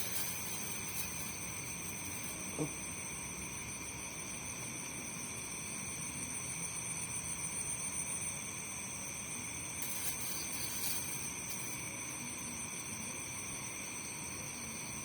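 A steady night chorus of crickets and other insects, a constant high-pitched trilling, with one short low sound about two and a half seconds in.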